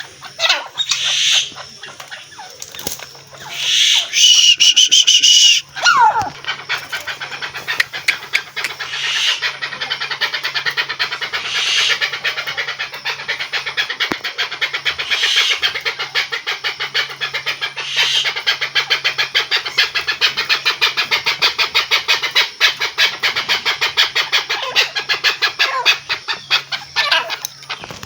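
Chukar partridge calling: a long, fast run of repeated clucking notes that carries on for over twenty seconds. A loud, steady high-pitched note sounds for about a second and a half near the start.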